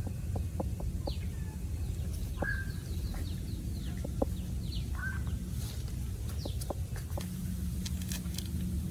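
Chickens clucking, a short call about every two and a half seconds, with quick high bird chirps in between over a steady low rumble.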